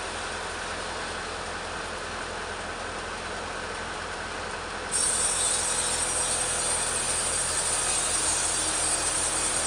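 Petrol chainsaw running steadily while ripping a teak log lengthwise; about halfway through it turns abruptly louder with a sharp high hiss.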